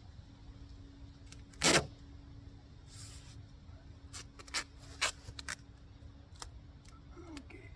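Handling noises: a short, loud rasping sound a little under two seconds in, then a series of light clicks and taps.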